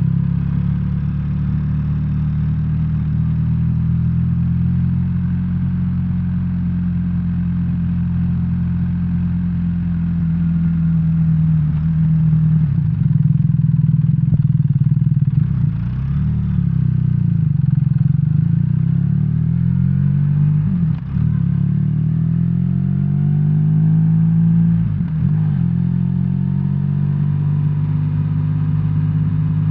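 BMW R1300R boxer-twin motorcycle engine running on the move, heard from the rider's seat. Its pitch rises and falls with speed, with two brief drops in level about two-thirds of the way through.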